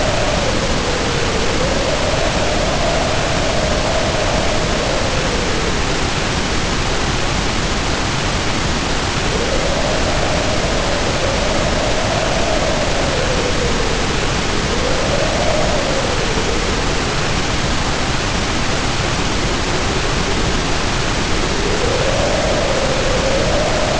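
Heavy rain pouring down in a steady hiss while the wind howls over it, its pitch rising and falling in four separate gusts.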